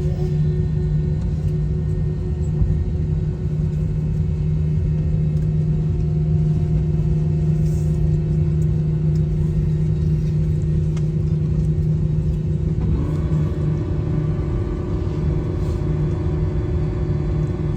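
Airbus A321-200 cabin noise on arrival: a steady, loud low rumble from the engines and airframe with a constant hum. Several higher tones join in about 13 seconds in.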